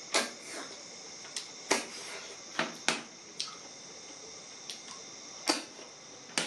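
Irregular, sharp mouth clicks and smacks of someone chewing food, about ten in six seconds, over a steady high hiss.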